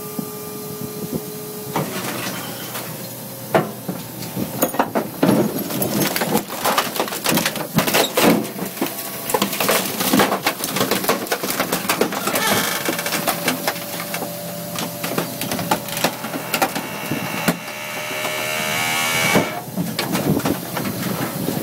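Garbage truck compactor crushing a dishwasher: many sharp cracks and snaps of breaking parts. A steady motor whine comes midway, and a rising whine near the end.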